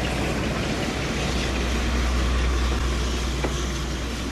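Heritage railway train on the move, a steady rumble with a constant low hum.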